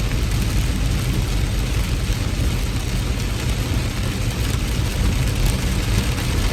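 Heavy rain falling steadily, with a deep, steady rumble underneath.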